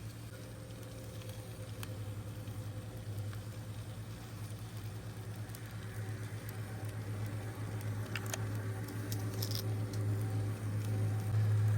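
Wood campfire burning: a low steady rumble that slowly grows louder, with a few sharp pops.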